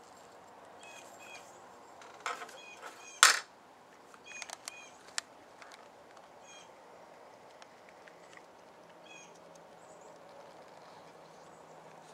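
A small bird giving short chirps every second or two. Faint clicks and handling noises come through, the loudest a sharp noise a little over three seconds in.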